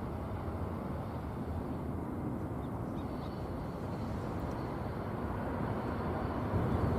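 Low, steady rumble of a jet airliner's engines heard across the airfield, swelling slightly near the end.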